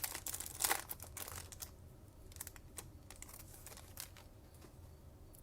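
Foil trading-card pack wrapper crinkling as it is torn open and handled, dense crackling for about the first second and a half. After that come only a few faint rustles and clicks of cards being handled.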